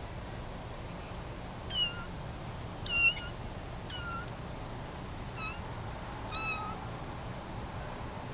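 Kitten mewing: five short, high-pitched mews about a second apart, the loudest about three seconds in.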